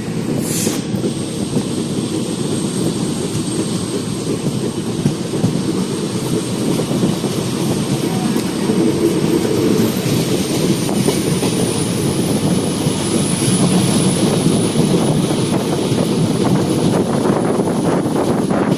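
Train running: a steady loud rumble with a thin high whine that rises slightly in pitch about ten seconds in.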